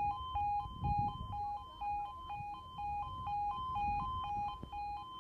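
Railway level crossing warning alarm sounding: a two-tone yodel that alternates evenly between a lower and a higher note, repeating steadily while the crossing is closed and a train is awaited.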